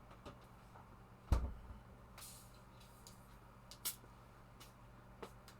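Quiet room with a steady mains hum. A single low thump comes about a second in, a short hiss follows a moment later, and there are a few small sharp clicks.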